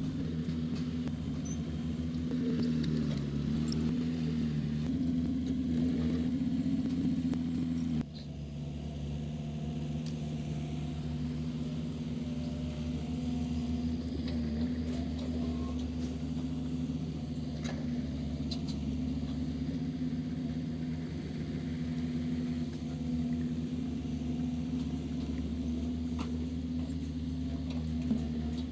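Heavy-machinery diesel engine running steadily, its level stepping down abruptly about eight seconds in.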